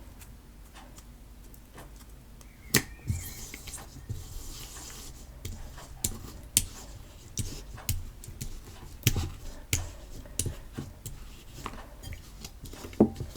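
Homemade PVA-glue slime being kneaded by hand, giving irregular sharp sticky pops and clicks every half-second or so, starting a few seconds in.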